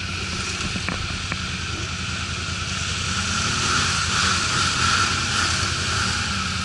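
ATV engine running steadily, with a low rumble and a broad hiss over it, and a couple of faint clicks about a second in.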